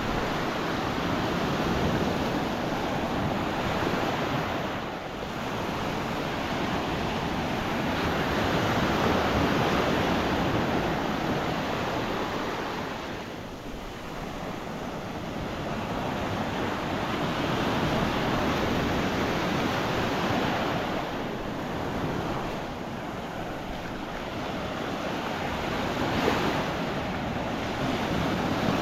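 Gulf of Mexico surf breaking and washing up a sand beach, a continuous rush that swells and eases every several seconds as the waves come in.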